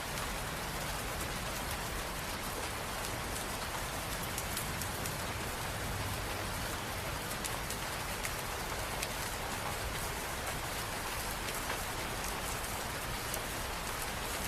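Steady rain falling, a continuous patter of drops on hard surfaces with many fine, close drop hits.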